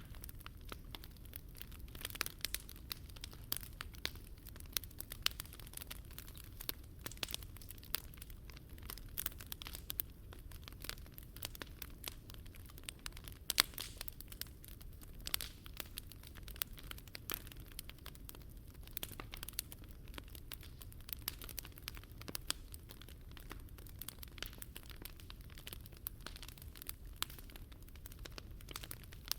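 Wood fire burning, crackling with frequent irregular pops and snaps over a steady low rumble.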